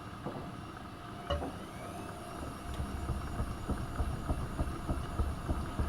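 AEG Öko-Lavamat 72520 washing machine running a boil wash: the drum turning with uneven low thuds and knocks of tumbling laundry, which get louder about two and a half seconds in.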